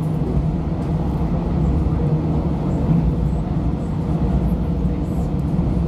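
Steady running noise inside the carriage of a CP Series 0450 diesel multiple unit travelling at speed: a constant low drone under the rumble of the wheels on the track.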